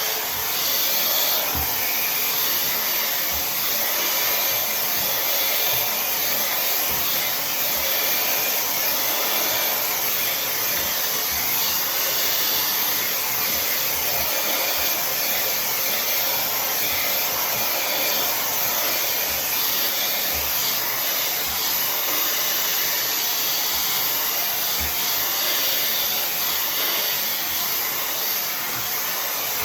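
Tymo Air Hype hair dryer running steadily, a constant rush of blown air, with a few faint low knocks scattered through.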